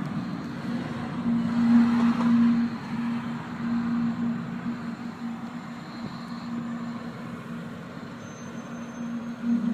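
A weird, steady low-pitched hum on one note that swells and fades in loudness, from a source that cannot be placed.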